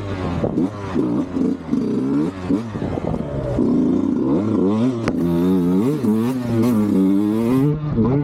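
Sherco 125 SE Factory two-stroke enduro engine through a Fresco exhaust, revving up and down over and over, its pitch rising and falling about once a second.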